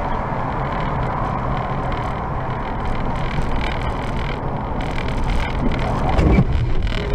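Steady engine and road noise of a car driving, heard from inside, growing a little louder for a moment about six seconds in.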